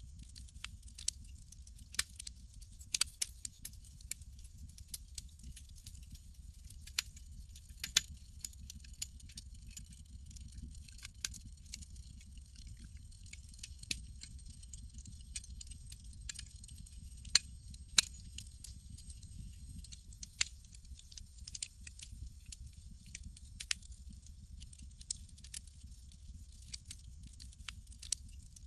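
Campfire crackling: irregular sharp pops and snaps over a low steady rumble, with a faint high hiss. The two loudest snaps come close together a little past the middle.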